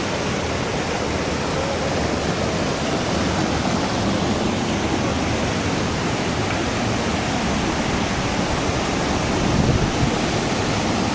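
Waterfall: the main stream of falling water rushing in a steady, loud roar, an even hiss across all pitches with no breaks.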